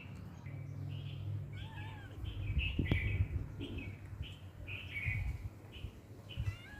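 A cat making a rapid series of short, high-pitched mews, about a dozen of them, with a single sharp knock about three seconds in.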